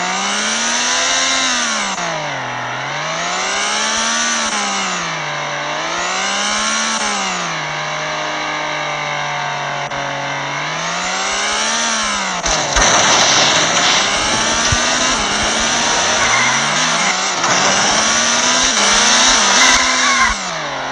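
Dubbed-in car engine sound effect, revving up and down over and over. From about twelve seconds in it grows louder and is joined by noisy tyre squeals, skids and sharp impact noises.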